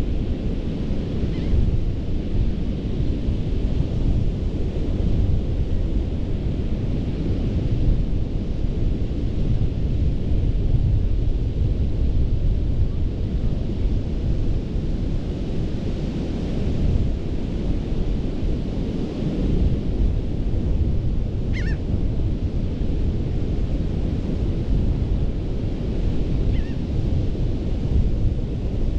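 Ocean surf breaking and washing up a sandy beach, swelling and easing every few seconds, with wind buffeting the microphone as a steady low rumble. A faint short falling chirp sounds about three quarters of the way through.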